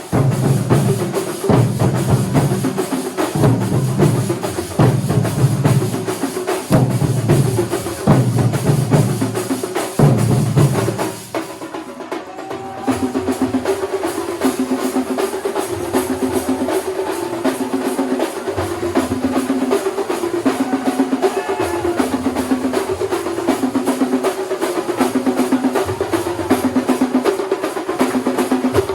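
Kerala thambolam drum ensemble playing. For about the first ten seconds there are heavy, loud bass-drum strokes. After a brief drop in intensity near the middle, the drums settle into a fast, steady, repeating rhythm of rapid strokes.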